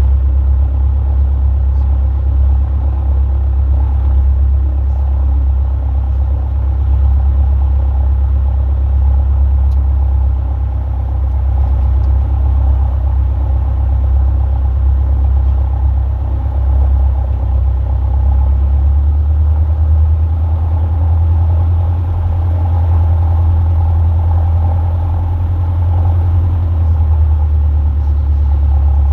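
Robin DR400 light aircraft's piston engine running at low power while taxiing, a steady low drone; its pitch shifts slightly about two-thirds of the way through.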